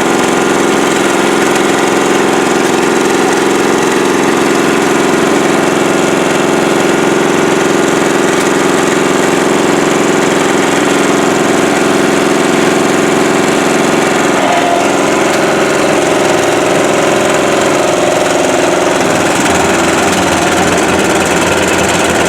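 An engine running steadily. About two-thirds of the way through, its note changes.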